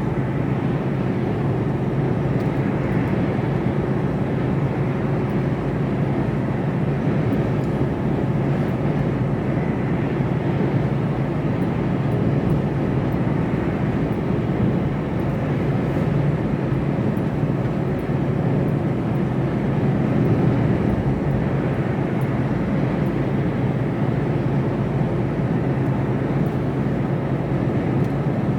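Steady drone of engine, tyre and wind noise inside the cab of a Mercedes Actros lorry cruising on the motorway, with a constant low hum.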